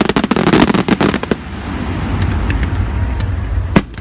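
Fireworks cracking and banging: a rapid string of sharp cracks in the first second and a half, then a steady low rumble with scattered small pops, and one loud bang near the end.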